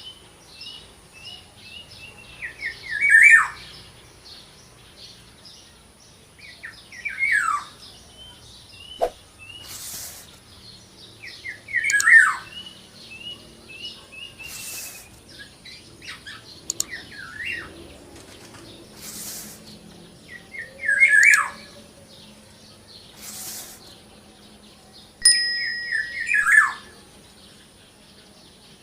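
Black-naped oriole (kepodang) calling: five loud calls sliding down in pitch, spaced several seconds apart, with runs of short, quick, higher chirps between them. Four brief noisy bursts come in the middle stretch.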